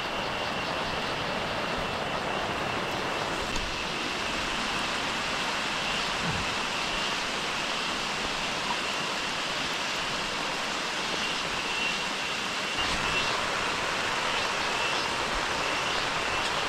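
Heavy rain falling steadily as an even hiss, with a faint steady high tone running under it.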